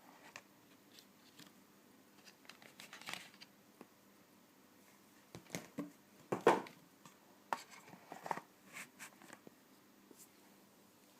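Irregular short scratchy strokes of a paintbrush working paint onto a painting surface, loudest a little past halfway.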